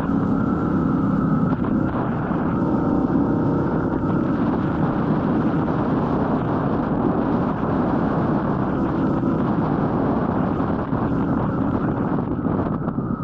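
Royal Enfield Meteor 350's single-cylinder engine running steadily under way, with wind rushing over the microphone.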